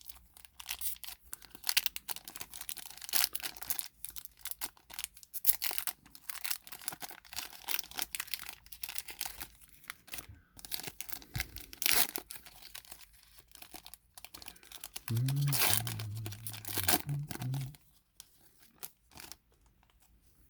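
A trading-card pack's plastic foil wrapper being torn open and crinkled: a long run of sharp rips and crackles for about fifteen seconds. Near the end there is a short low voice sound, then it goes quiet.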